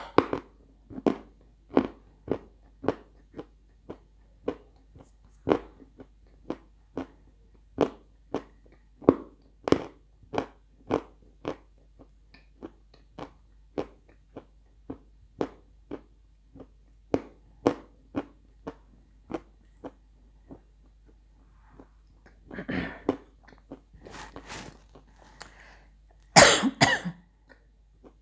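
Close-up crunching of red edible clay being chewed, the dry pieces cracking between the teeth at about two crunches a second. Near the end come a few louder, longer crunching bursts.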